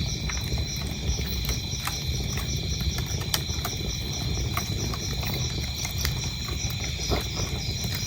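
Wood fire burning with a steady low rumble and scattered crackles and pops, while crickets chirp in a steady, rapid, even rhythm.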